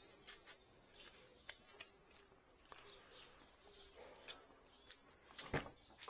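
Near silence, broken by a few faint, short clicks and light knocks.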